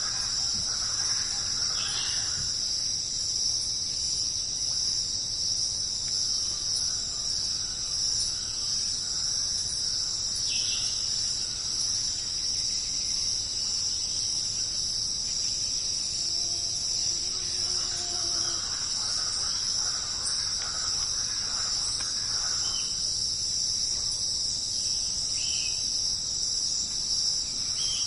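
Jungle night insect chorus: a steady, unbroken high-pitched trilling drone, with a few brief chirps scattered through it.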